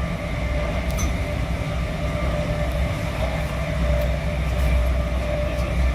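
Moving passenger train heard from inside the carriage: a steady low running rumble with a faint hum and a few light clicks.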